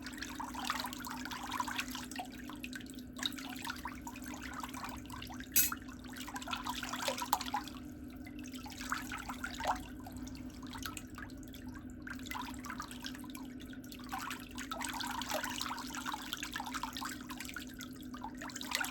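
Water trickling and splashing irregularly over a steady low hum, with one sharp click about five and a half seconds in.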